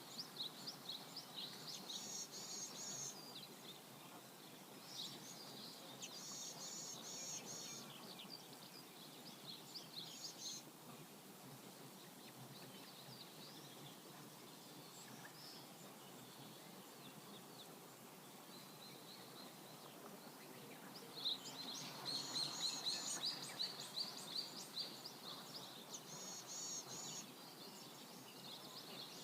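Steady rush of a flowing river, with songbirds singing over it in short repeated chirping phrases that come and go, busiest and loudest a little past two-thirds of the way in.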